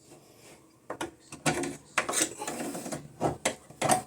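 Irregular mechanical clicks and clattering, starting about a second in, like hard parts or tools being handled.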